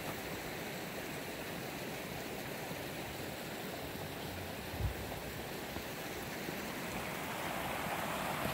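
Steady rushing of a flowing stream, with a brief low thump about five seconds in.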